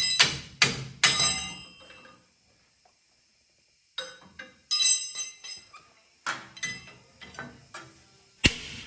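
Metal-on-metal strikes and clinks with a ringing tail, in irregular clusters, like hammering and handling steel parts and tools. The strikes die away about two seconds in, pick up again, and the loudest hit comes near the end.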